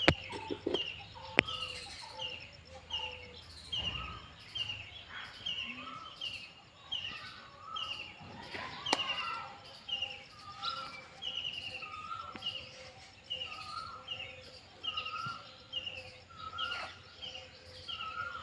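Bird calling over and over in short, evenly spaced chirps, a little under two a second.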